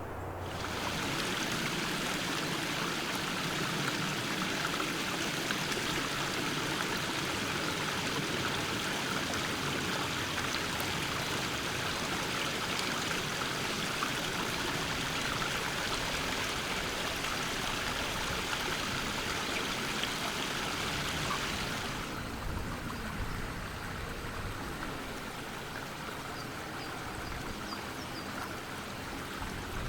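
Stream water running steadily over stones, a full, even rush; about 22 seconds in it drops to a quieter, softer flow.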